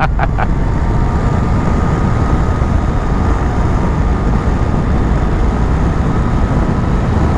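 Motorcycle riding along at steady speed: a loud, even rumble of wind, engine and road noise, with a faint steady whine on top.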